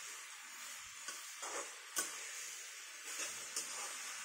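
Shredded cabbage and potatoes frying in a metal kadhai with a soft steady sizzle, while a flat spatula turns them, scraping and tapping against the pan a few times; the sharpest tap comes about two seconds in.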